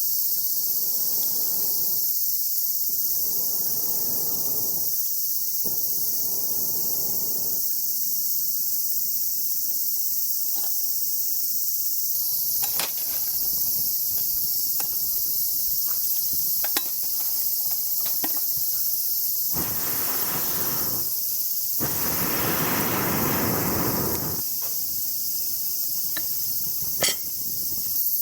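A steady, high-pitched chorus of summer insects shrilling. Several bursts of scraping or rustling noise, each a second or two long, and a few sharp clicks.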